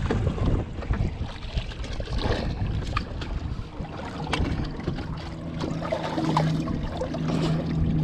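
Water sloshing against a skiff's hull with scattered knocks on the deck. About four seconds in, the steady hum of the boat's outboard motor sets in.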